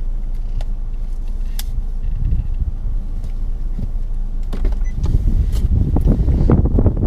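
Car running, heard from inside the cabin: a steady low engine and road rumble with scattered sharp ticks. It grows louder and rougher about five seconds in.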